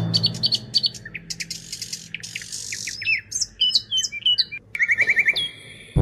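Birds chirping: a string of short, high chirps and whistled calls, with a quick trill about five seconds in.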